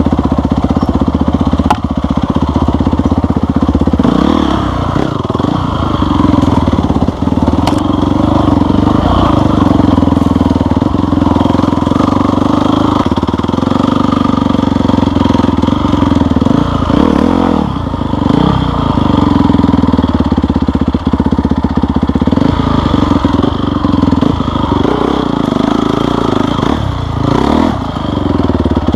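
Off-road vehicle engine running under load. Its note drops and climbs again several times as the throttle is eased and opened, most clearly about halfway through and near the end.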